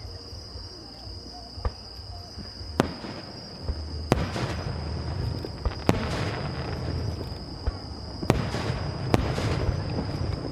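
Aerial fireworks bursting: a run of sharp bangs a second or two apart, several of them followed by a spreading crackle, with a steady high insect trill underneath.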